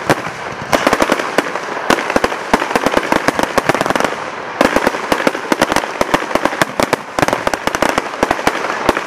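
Aerial fireworks shells bursting in a rapid barrage of bangs and crackles, several reports a second, thinning briefly about four seconds in.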